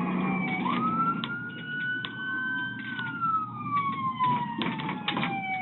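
Police car siren on a wail setting: the pitch rises quickly about half a second in, holds and climbs slowly, then falls in one long slide and starts rising again at the very end. Scattered short knocks and rattles sound over steady road noise.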